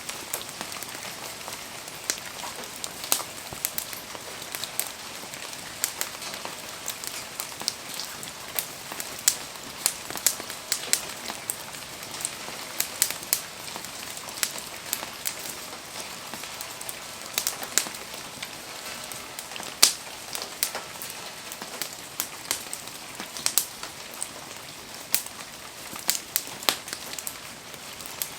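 Campfire burning in steady rain: an even hiss of rain, broken by frequent sharp ticks and pops at irregular intervals.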